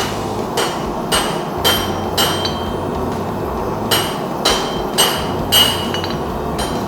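Hand hammer striking a hot 5/8-inch mild steel bar on an anvil, bending its tip back on itself. About nine blows at roughly two a second, in two runs with a pause near the middle, each with a short metallic ring.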